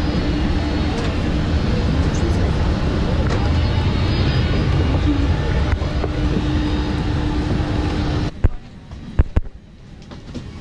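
Loud, steady jet aircraft noise: an even roar with a low hum and a faint held tone. It cuts off abruptly about eight seconds in, and a few sharp knocks follow in the quiet.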